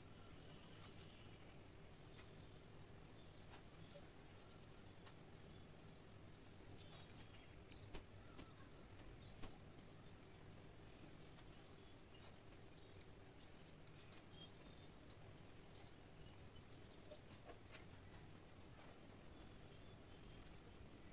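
Faint, repeated short high chirps of a small bird, about one or two a second, over a low room hum. Two soft clicks sound near the middle.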